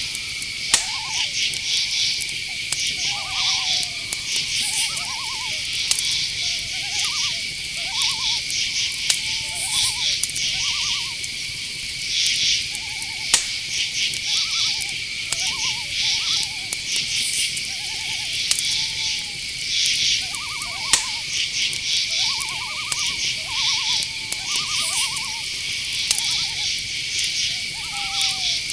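Night-time cricket chorus: a steady high trill under pulsing, rhythmic insect chirps, with many short rising-and-falling calls throughout.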